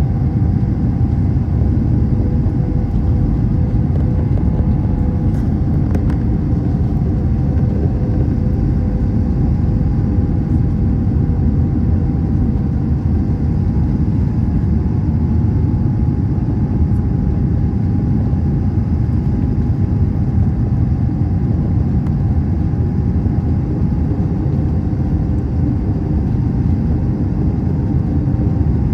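Airbus A321 cabin noise: a steady low rumble from the engines, with a faint steady hum above it.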